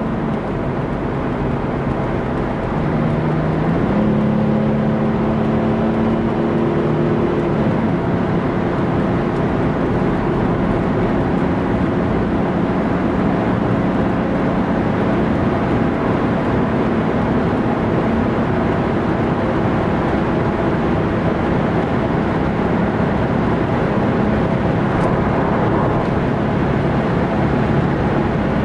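In-cabin sound of a Mercedes-Benz 300 SDL Turbo's OM603 inline-six turbodiesel pulling at Autobahn speed. Its note steps up in pitch a few seconds in and then holds steady under load, over constant road noise.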